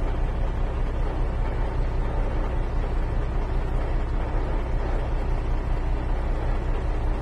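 Steady engine and road noise of a moving car, heavy in low rumble, cutting in abruptly at the start and holding even throughout.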